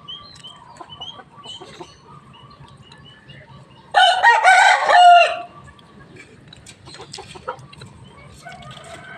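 A rooster crowing once, loud and lasting over a second, about four seconds in. Faint short chirps and soft clucking run around it.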